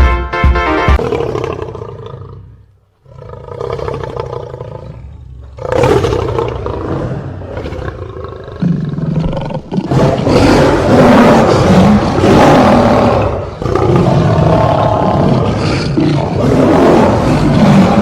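Lion roaring over and over: two quieter roars, then louder, longer roars with short breaks between them.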